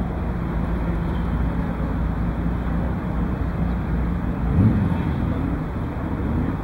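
Steady outdoor background noise, heavy at the low end, with wind on the microphone and a low steady hum that fades out about four seconds in.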